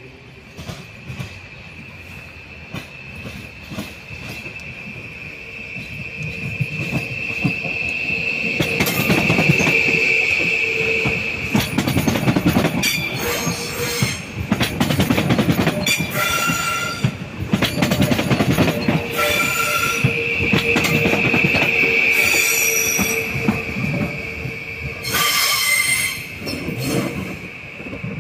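A train rolling through the station, its wheels giving a steady high squeal over the rumble of the cars, with bursts of clicking from the wheels over rail joints and points. The squeal and rumble swell about a third of the way in and stay loud.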